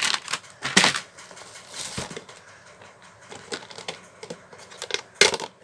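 Plastic fridge storage containers and their lids being handled: scattered clicks and knocks of hard plastic, with a louder knock near the start and another near the end.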